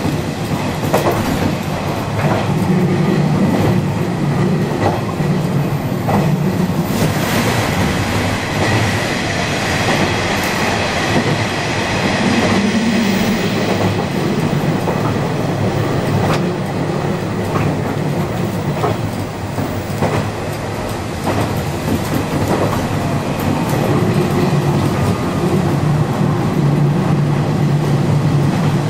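Diesel local railcar running along single track, heard from inside: a steady running rumble with sharp clacks of the wheels over rail joints and, at times, a thin high wheel squeal on curves.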